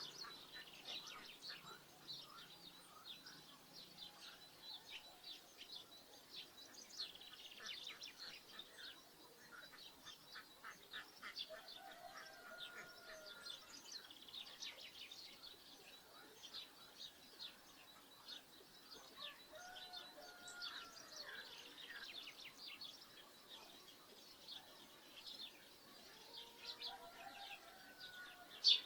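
Small birds chirping in rapid, continual bursts, with a few lower, drawn-out calls from other birds at intervals. A single sharp click sounds just before the end.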